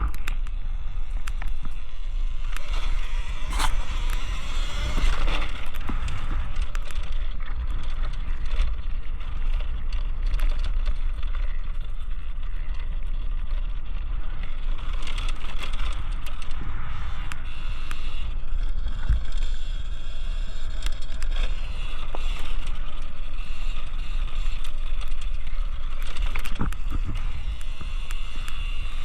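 Riding an electric dirt bike over a dirt track: a constant wind rumble on the microphone under a faint high motor whine that rises and falls, with scattered knocks and rattles from the bike over the bumps.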